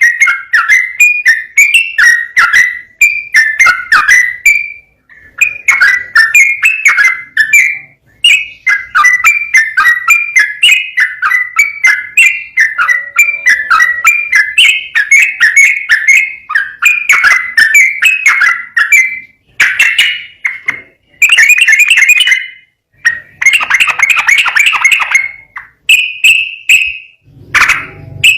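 Sooty-headed bulbul (trucukan) singing quick whistled phrases one after another with only short breaks, in the rapid continuous style bird keepers call ropel.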